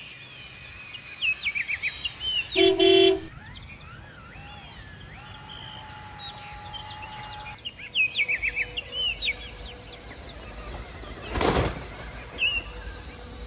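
Bird-like chirps repeating over a steady background hum, with a short horn toot about three seconds in and a brief burst of rushing noise about eleven and a half seconds in.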